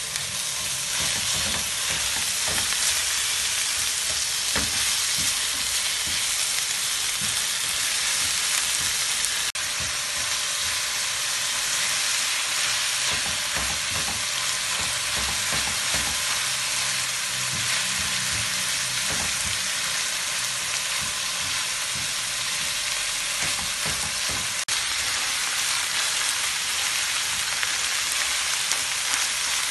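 Minced beef and chopped onions sizzling steadily as they fry in a non-stick pan. A silicone spatula stirs and scrapes through them, with scattered taps against the pan.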